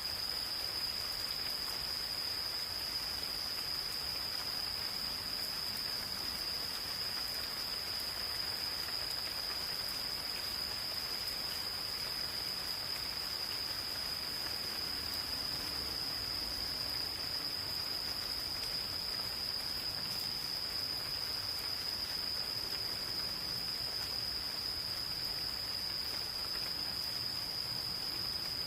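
Gentle rain falling on forest foliage, a steady hiss of fine drops, with an insect's continuous high-pitched trill held unbroken at one pitch throughout.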